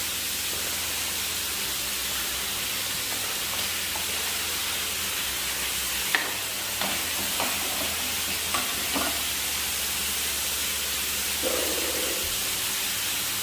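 Food sizzling as it fries in hot fat in a pan, a steady hiss, with a few light clicks and knocks in the middle.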